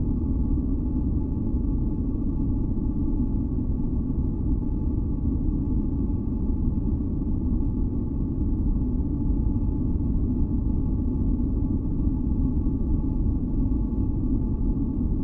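Steady, deep noise of a white-noise sleep track, weighted toward the low end like brown noise, with a few faint steady tones held above it. It runs unchanged, with no beat or events.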